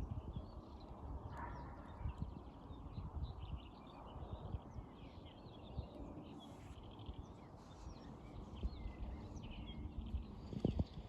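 Many small birds chirping and twittering, with a low rumble and a few dull low thumps underneath, the strongest near the end.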